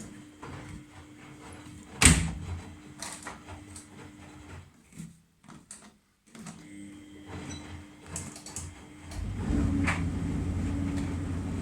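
Miele Novotronic W971 washing machine: a sharp clack about two seconds in over a steady low hum, then from about nine seconds in the machine runs with a louder, steady low rumble.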